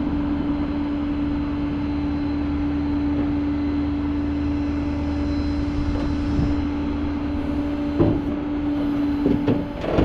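Tow truck's hydraulic system running as the car is lowered off the truck, a steady whine over the engine's rumble that cuts off shortly before the end, with a few clunks near the end.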